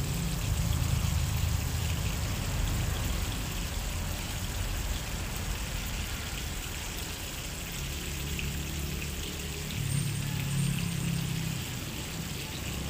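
Pieces of pork belly frying in cooking oil in a pan: a steady sizzle and crackle, with a low hum underneath.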